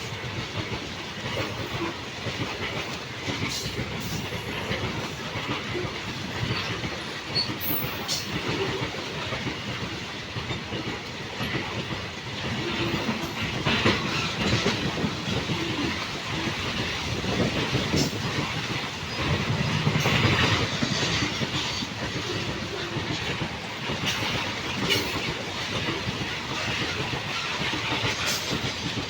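A train's wagons rolling past over the rails: a steady rumble with repeated wheel clacks over the rail joints.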